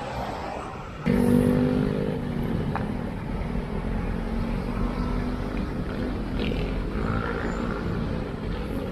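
Road traffic heard from a bicycle: a motor vehicle engine hum comes in suddenly about a second in and stays steady close by, over a constant low road and wind rumble.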